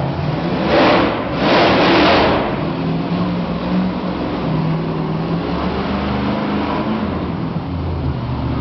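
Monster truck engine running and revving, its pitch stepping up and down. Two loud rushing bursts come in the first couple of seconds.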